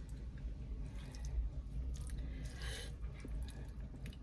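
Close-miked chewing and wet mouth sounds of someone eating soft fish and rice by hand, with small squishy smacks and clicks. A low steady hum runs underneath.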